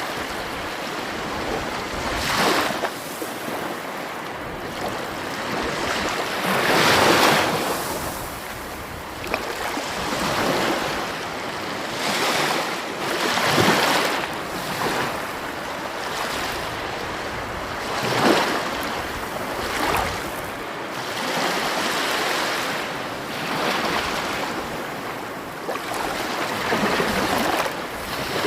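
Sea waves breaking on the shore, a steady wash that swells into a louder surge every four to five seconds.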